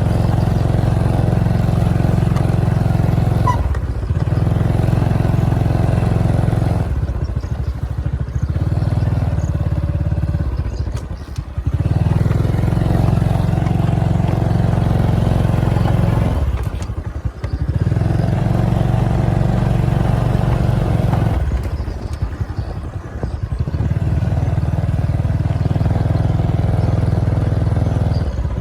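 Motorcycle engine running steadily under way. Its note drops away briefly about five times, as the throttle is eased off.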